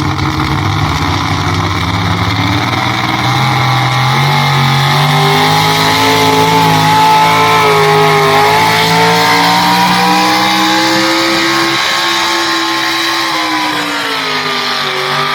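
Pulling tractor's engine at full throttle, dragging the weight sled down the track. The engine's pitch climbs a few seconds in, holds with some waver, then falls near the end.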